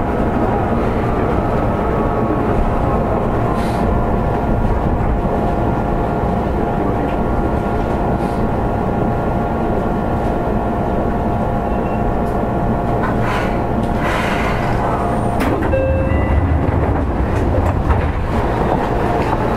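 Seibu 2000 series electric train running along the line, heard from inside the passenger car: a steady rumble of wheels on rail with several steady whining tones over it. About three-quarters of the way through the whining tones drop away, the rumble deepens, and a few brief squeals and clicks come through.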